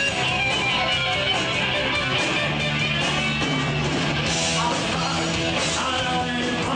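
Rock music with electric guitars playing.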